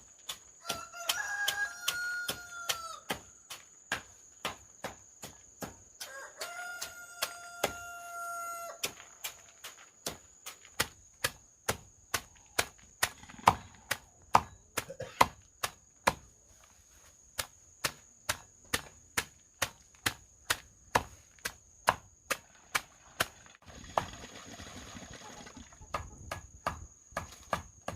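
Steady rhythmic chopping, about two strokes a second with a couple of short pauses. A rooster crows twice in the first few seconds. A steady high insect drone runs underneath.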